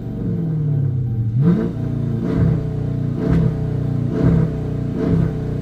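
Dodge 300's straight-piped exhaust idling between quick throttle blips, the engine revving up and dropping back about five times, roughly once a second.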